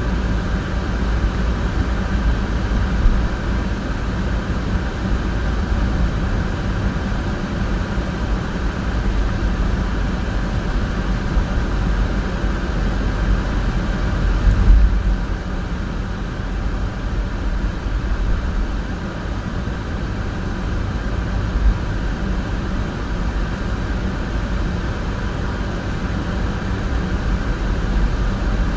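Car driving at steady speed: a constant low engine and road rumble, with a brief louder bump about halfway through.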